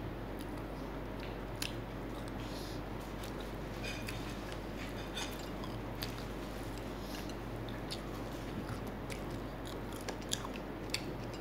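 Close-up chewing and biting of fried chicken, with short crisp clicks scattered throughout, over a steady low hum.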